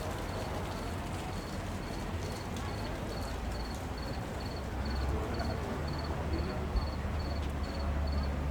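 A cricket chirping steadily, about two or three short high pulsed chirps a second, over a constant low rumble that grows a little louder about five seconds in.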